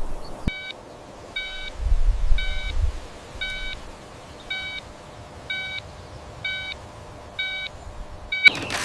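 Electronic warning beeper sounding one short, pitched beep about every second, nine beeps in a row. A brief low rumble comes in around two seconds in.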